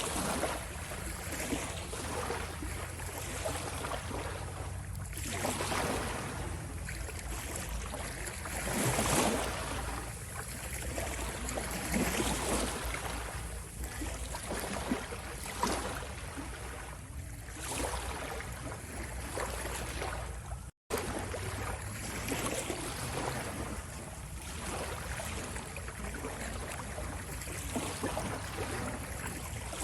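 Ocean waves washing in, a steady rush of water that swells and eases every few seconds. The sound cuts out for an instant about two-thirds of the way through.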